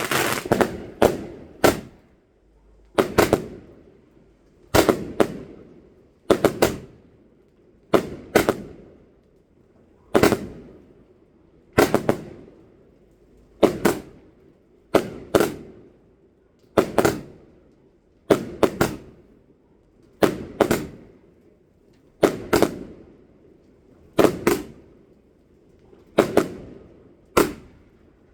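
Fireworks going off: a steady series of sharp bangs, mostly in pairs or threes, about every one and a half to two seconds, each with a short echoing tail. A fast crackle is dying away right at the start.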